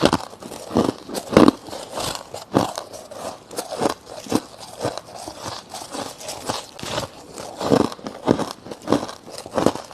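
Soft frost ice being bitten and chewed: a steady run of crisp, irregular crunches, about two a second.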